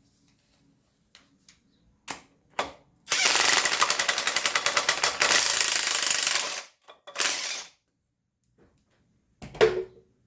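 Impact wrench hammering in bursts: two short blips, a run of about three and a half seconds, then a shorter burst. A single metallic clunk comes near the end.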